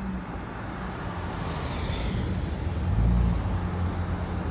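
Steady rumble of a fast train running away down the line after passing under the bridge, swelling to its loudest about three seconds in.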